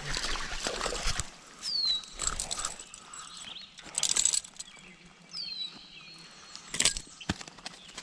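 A bird's short high whistle sliding downward, repeated three times about three and a half seconds apart. Brief bursts of rustling and knocking come in between, the loudest about four and seven seconds in.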